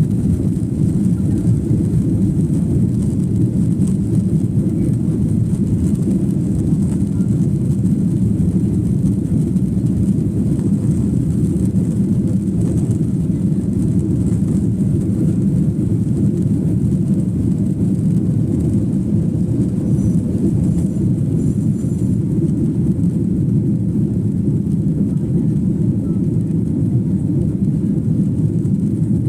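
Steady low rumble of an airliner in flight, engine noise and rushing air heard from on board, unchanging throughout.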